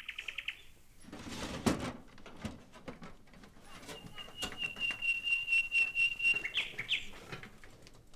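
Birds calling: a quick high trill at the start, then a long steady high trilling call with short rising notes at its end. A brief burst of rustling comes about a second and a half in.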